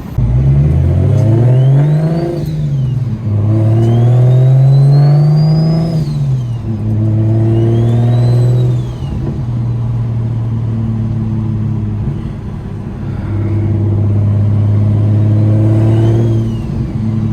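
BMW N54 inline-six with a single-turbo conversion accelerating in pulls, its pitch climbing and then dropping at each upshift. A high turbo whistle rises with each pull and falls away when the throttle lifts.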